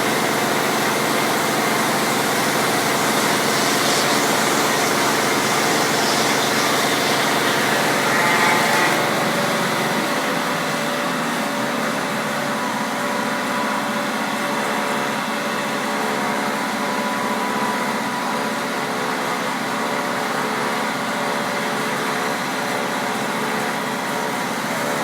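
Electric log-rounding machine running steadily, its motors giving a mechanical hum with several steady tones; the sound turns a little quieter and duller about nine seconds in.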